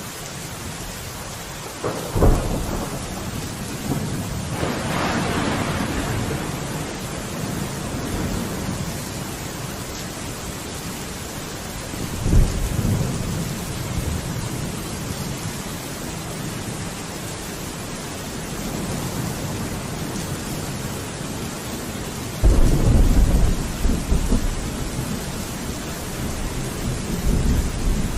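Steady rain with thunder rumbling four times; the loudest and longest roll comes about three-quarters of the way through.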